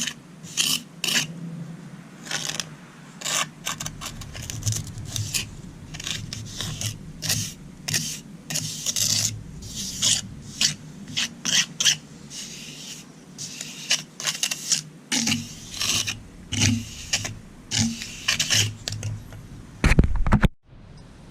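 A hand trowel scraping and smoothing a wet cement patch on concrete steps in many quick, irregular strokes. Near the end comes a loud, deep thump, then the sound cuts off suddenly.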